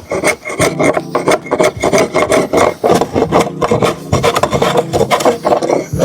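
A hand tool scraping across wood in quick, irregular back-and-forth strokes, like a rasp or file shaping a workpiece.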